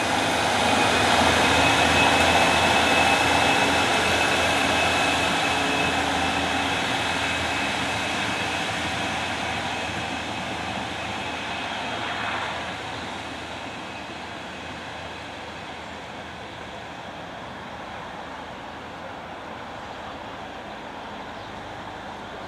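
Great Western Railway diesel multiple unit departing from the platform, its engines and wheels on the rails loudest just after the start. The sound then fades steadily over about twelve seconds as the train draws away, leaving a quieter steady background.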